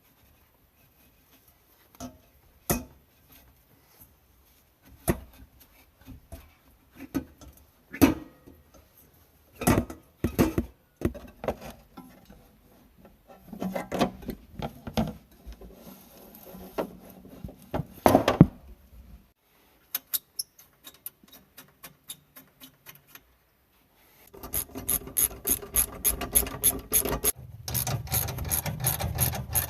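Hand tools working on metal exhaust parts: scattered knocks and scraping, then, after a short lull, a fast even clicking of about five a second, with a low hum joining it near the end.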